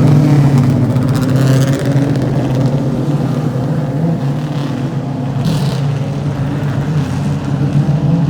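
Race car engines running at a steady low pitch around the track, easing off slightly midway and picking up again near the end.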